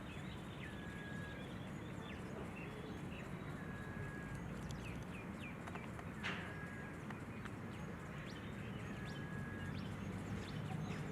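Birds calling: a repeated short, level whistle every couple of seconds and a few brief higher chirps, over a steady low background hum. A single sharp click about six seconds in.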